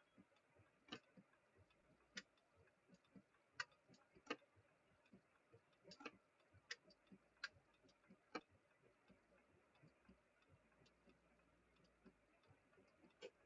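Near silence broken by faint, irregular sharp ticks over a faint hiss: raindrops striking the car's body and windshield, heard from inside the car.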